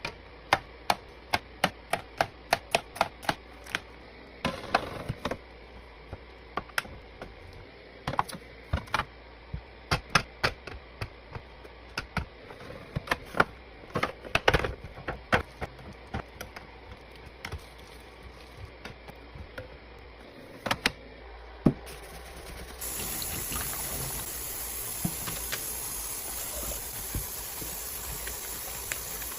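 Hard items tapping, clicking and knocking as they are handled and set down, often two or three strikes a second. About two-thirds through, a steady hiss starts under the taps and keeps going.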